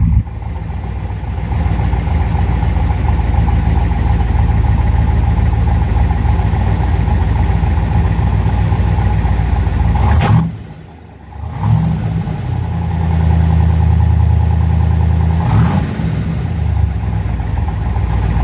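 1966 Corvette L72 427 big-block V8 running at a lumpy idle, heard from the driver's seat. About ten seconds in the sound drops away for a second and then comes back. The engine is then held at higher revs for about three seconds before settling again.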